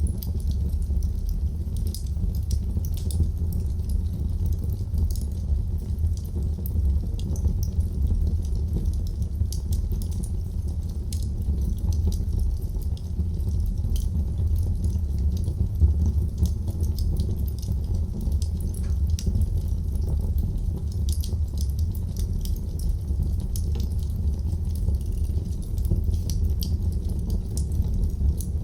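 Wood fire crackling in a fireplace: scattered sharp crackles and small pops over a steady low rumble.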